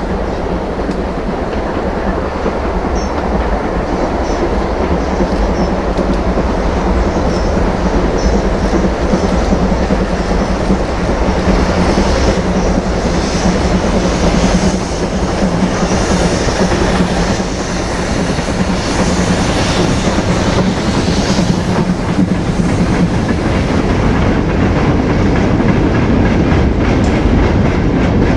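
A steam-hauled train running past, its coaches or wagons rolling with a clickety-clack of wheels over the rail joints.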